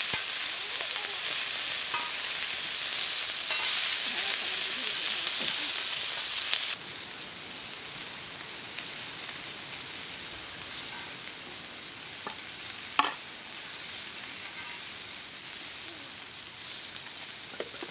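Kabab skewers sizzling in mustard oil on a flat frying pan, with a metal spatula stirring and scraping against the pan. The sizzle drops abruptly to a quieter level about seven seconds in, and a single sharp clack comes a little past two-thirds of the way through.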